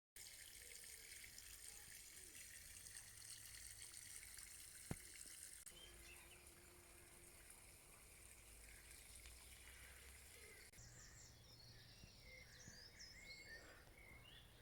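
Faint outdoor woodland ambience: a quiet steady hiss, one sharp click about five seconds in, and small birds chirping from about eleven seconds in.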